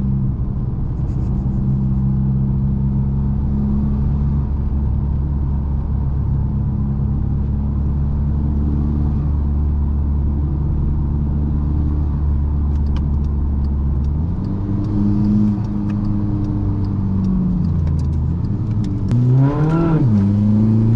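Turbocharged 2.0 TDI common-rail diesel engine of a modified MK6 Golf GTD, with a big turbo and a straight-through stainless exhaust, cruising under steady revs for most of the time. Past the middle the engine note shifts and dips, then near the end it revs up quickly, drops at a gear change and climbs again as the car accelerates.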